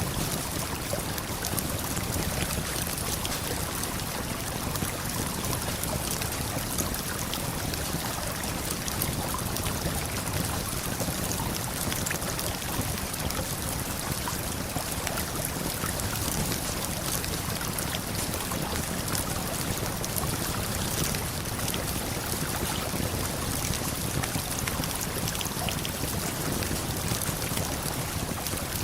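Steady rush of a waterfall and flowing river water. Faint, scattered crackles of a campfire sound over it.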